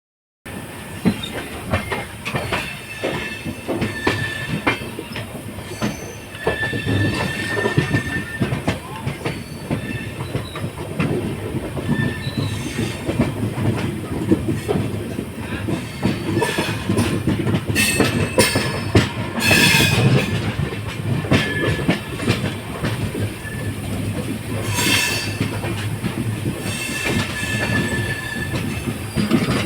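Passenger train running on the rails: a steady rumble with frequent clacks of the wheels over rail joints, and a high wheel squeal that comes and goes, loudest a little past the middle.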